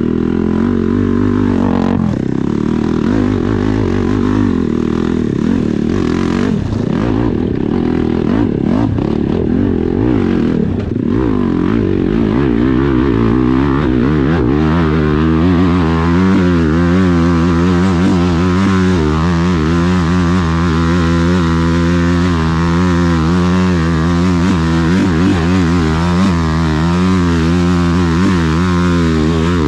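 Dirt bike engine under hard throttle on a hill climb, the revs rising and falling with a few knocks and clatter in the first half, then held at a steadier, wavering pitch for the second half.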